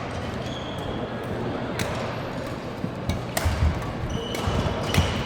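Badminton rackets hitting a shuttlecock in a rally, sharp clicks about a second apart, with brief squeaks of court shoes on the floor over the echoing hum of a sports hall.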